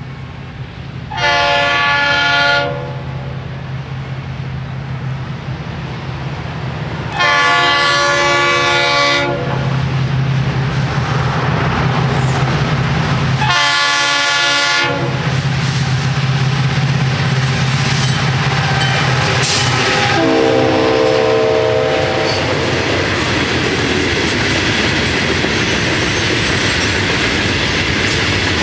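Florida East Coast Railway freight train's diesel locomotive horn sounding the grade-crossing signal: two long blasts, a short one and a final long one, the last lower in pitch. The train's hopper cars then roll past with a steady rumble and clatter of wheels on the rails.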